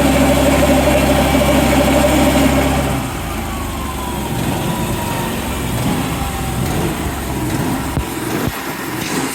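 Engine running steadily with a strong hum, then dropping to a lower, rougher level about three seconds in.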